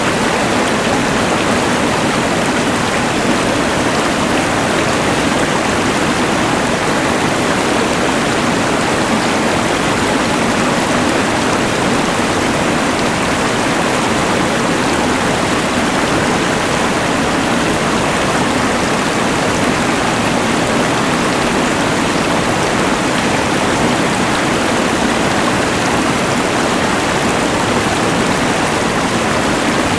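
Rushing mountain river, a dense unbroken rush of water, blended with the steady hiss of a LectroFan white noise machine.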